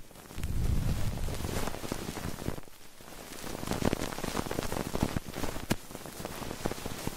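Dense crackling and rustling close against binaural ear microphones, like rain on a surface, with a low rumble for the first couple of seconds and a brief lull about three seconds in.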